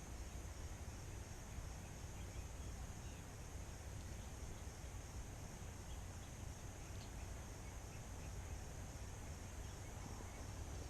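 Faint outdoor ambience: a steady low rush with a thin, high, steady insect drone and a few faint chirps.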